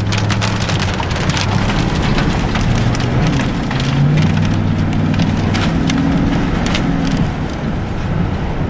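Rain pelting a moving vehicle's roof and windshield, a dense patter with many sharp individual drop hits, over the vehicle's low running hum, which rises in pitch about four seconds in.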